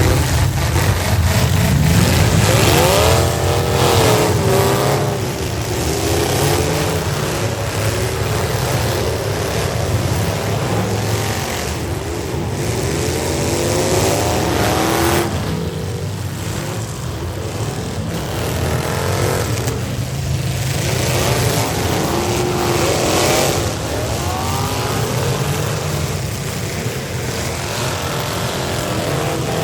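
Several V8 demolition derby cars running together, their engines revving, with the pitch rising and falling over and over.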